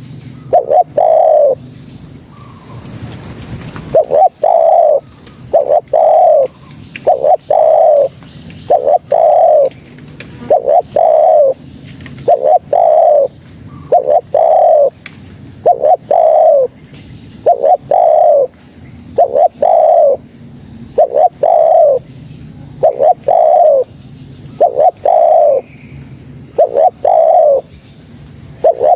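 Spotted dove (tekukur) cooing over and over, presented as a female's call to draw in males. The coos come again and again, many in close pairs, with a pause of about two seconds near the start.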